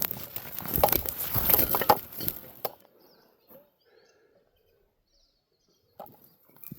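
Rustling and crunching for the first two and a half seconds, then a near-quiet spell with a few faint bird chirps, and a couple of sharp clicks near the end.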